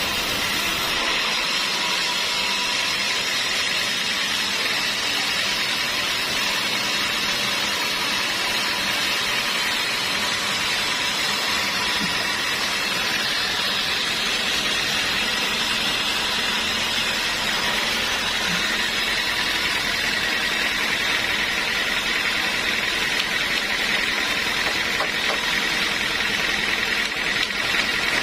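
Sawmill machinery running steadily: an even, unbroken noise with a faint steady hum under it.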